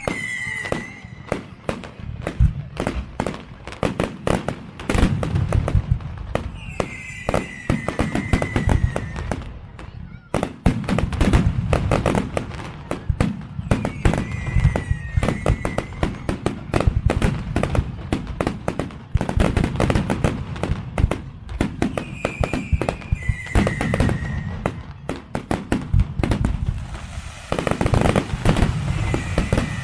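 Fireworks display: a dense, irregular barrage of bangs and crackling explosions with deep booms, and a short wavering high tone every several seconds.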